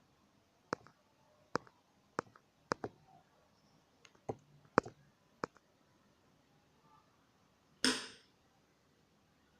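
Sharp, separate clicks and taps of small hard objects, about eight over five seconds, then a short, louder scraping clatter about eight seconds in.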